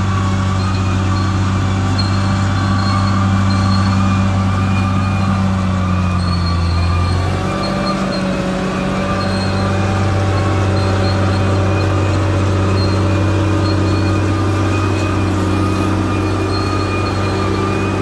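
Caterpillar D6R XL bulldozer's diesel engine running steadily under work, with thin high whining tones over the low drone. The engine note dips briefly about halfway through, then picks up again.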